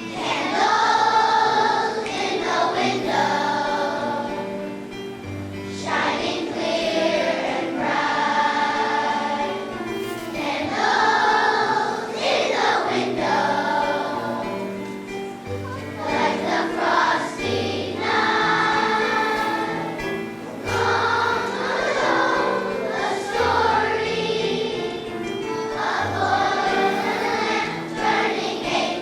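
Children's choir singing a song in phrases, with instrumental accompaniment holding low notes underneath.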